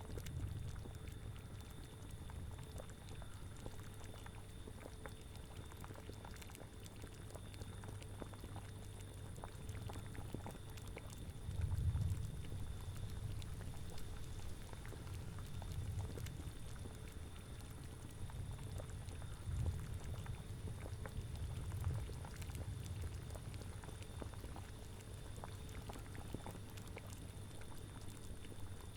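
A cauldron of liquid boiling, a steady low bubbling and gurgling with louder bubbling swells, the strongest about twelve seconds in, over a faint steady hum.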